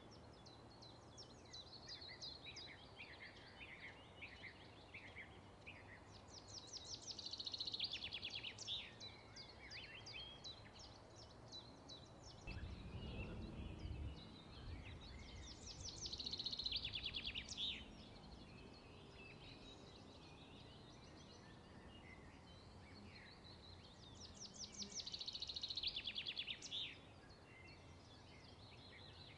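Birds singing: a rapid trilled phrase repeats three times, about nine seconds apart, with scattered chirps between, over faint background hiss. A brief low rumble comes about halfway through.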